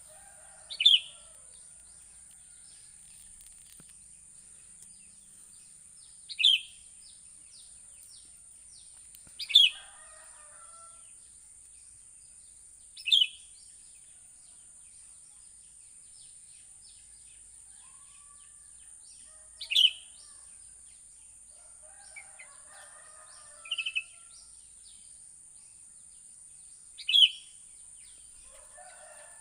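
Sooty-headed bulbul (kutilang) calling: a loud, short falling note repeated seven times, every three to seven seconds, with softer chattering after some of them. A steady high-pitched hiss runs behind.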